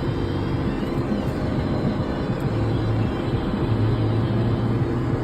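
Large four-wheel-drive tractor's diesel engine running steadily, heard from inside the cab as an even low drone.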